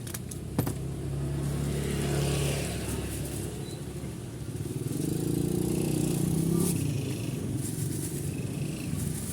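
Motor vehicle engines going by, the sound swelling about two seconds in and again from about five to seven seconds in, over a steady low hum. A single sharp click comes just after the start.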